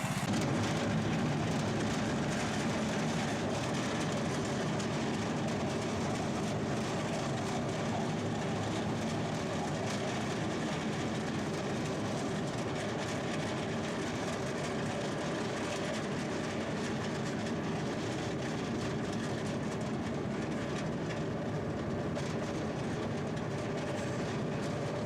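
A 10-inch gauge miniature train running along its track, with a steady running noise that holds even throughout.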